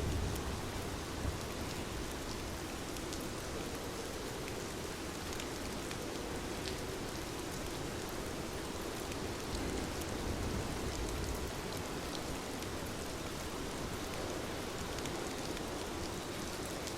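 Heavy rain falling steadily, an even hiss with scattered sharp drop ticks. A low rumble swells about ten seconds in.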